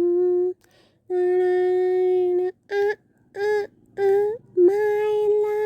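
A person humming a slow tune in one low pitch: a held note, a long held note, three short notes, then a long note that slides up at its end.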